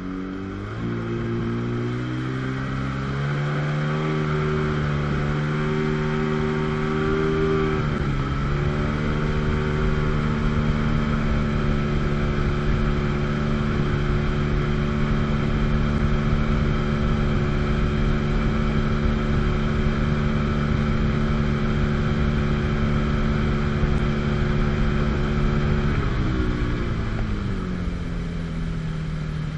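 1997 Sea-Doo GTS jet ski's 720 two-stroke twin running hard on a flat-water run. The revs climb over the first few seconds, dip briefly about eight seconds in, hold steady and high for a long stretch, then drop near the end before picking up again.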